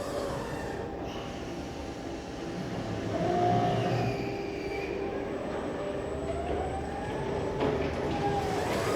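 Electric reach truck running: a whine from its motor whose pitch glides up and down, with a steady hum underneath.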